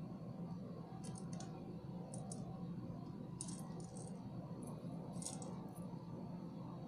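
Small beads clicking and rattling against each other and the metal pliers as they are handled, in about five short clusters of light clicks, over a steady low hum.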